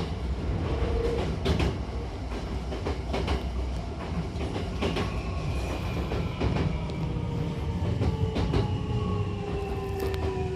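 Hankyu Takarazuka Line electric train running with a steady low rumble, its wheels clacking over rail joints every second or two. From about halfway, a motor whine slides slowly down in pitch.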